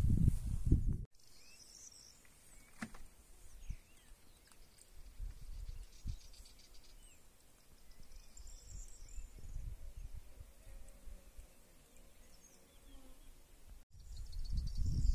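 Small birds chirping now and then, with a short rapid trill, in a quiet open-air background. A loud low wind rumble on the microphone fills the first second, stops abruptly, and comes back near the end.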